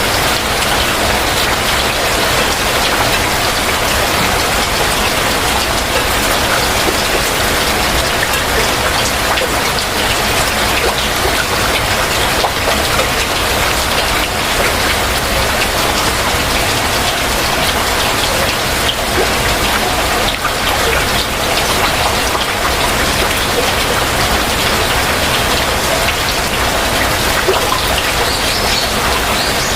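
Heavy rain falling steadily and densely. Near the end a bird starts chirping faintly above the rain.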